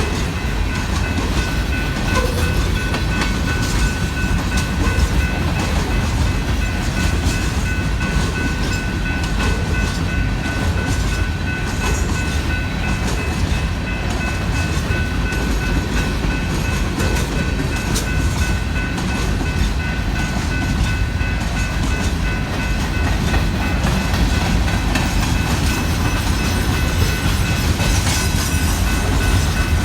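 Union Pacific limestone freight train rolling past at steady speed: a continuous low rumble with the wheels clicking over the rail joints. A steady high-pitched whine from the wheels on the rail runs alongside.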